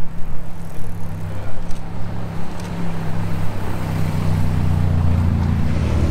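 Car engine running at low revs as a car rolls slowly by; the filmer takes the car for a Ferrari Roma. The engine note gets louder about four seconds in.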